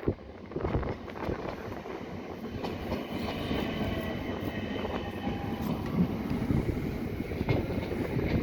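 Electric train running through the station on third-rail track: a steady rumble of wheels on rails that builds slowly, with a faint high whine in the middle and a few sharp clicks.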